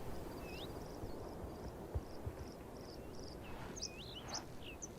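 Outdoor ambience: a steady background hiss with a bird calling. There is a run of short high chirps at about three a second, and a few upward-sweeping whistled notes near the start and again past the middle. Two soft low thumps come about two seconds in.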